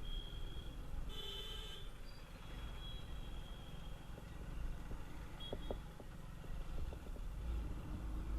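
Steady low rumble of a motorcycle ride through traffic, with a short, high vehicle horn beep about a second in.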